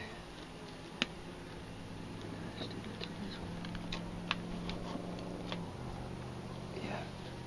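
Steady low hum of a colony of Italian honeybees in an open hive, with scattered sharp clicks and taps as hive frames are handled, the loudest about a second in and again past the middle.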